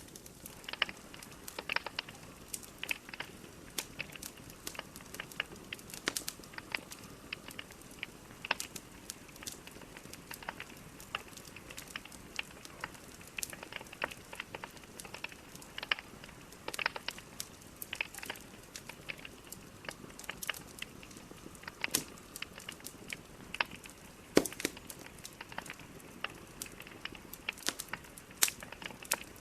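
Wood logs burning in a fireplace: irregular sharp crackles and pops, several a second, over a faint steady hiss.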